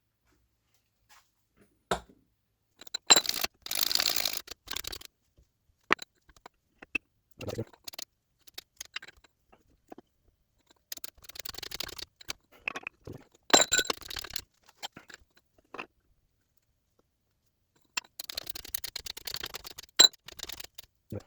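Metal clicks, clinks and scraping in several bursts with pauses between, from the press, socket and new front bearing being handled and worked as the bearing is pressed into the supercharger's bearing plate.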